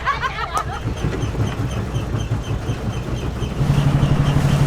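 Motorboat engine running, heard as a low rumble that settles into a steady low hum about three and a half seconds in.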